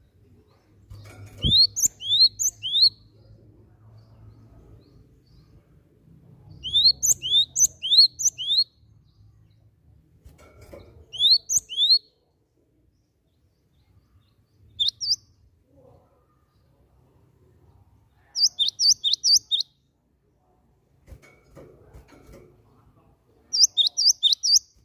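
Cinereous tit (gelatik batu) calling in short runs of quick, high rising notes, four to six notes a run, with pauses of a few seconds between runs. A faint low hum sits under the calls, with a single thump about a second and a half in.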